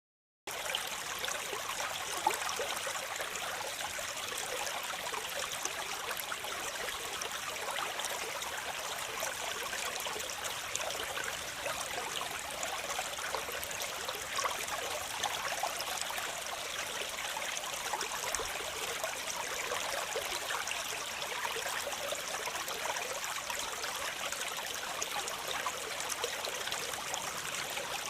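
Waterfall running steadily, a bright hiss of falling water with little low rumble. It cuts in abruptly about half a second in, after silence.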